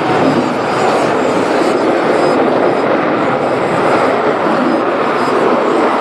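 Dassault Rafale C fighter's twin Snecma M88 turbofans during a display flight: loud, steady jet noise.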